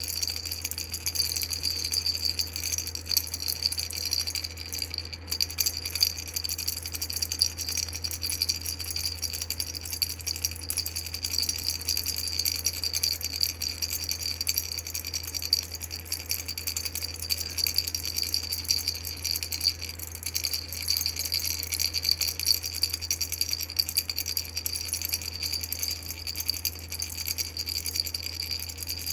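Coffee-cup-shaped baby rattle toy shaken continuously, a dense, steady, high-pitched rattling of beads against the cup that breaks off briefly about five seconds in. A steady low hum runs underneath.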